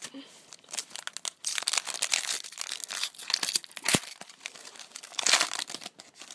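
A foil baseball card pack (Topps Update) being torn open, its wrapper crackling and crinkling in the hands, with a single sharp knock about four seconds in and a louder crinkle of the wrapper a second later.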